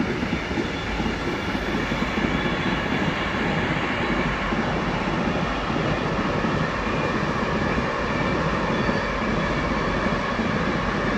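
A train running past on the main line, with a steady noise of wheels on rail that holds level throughout.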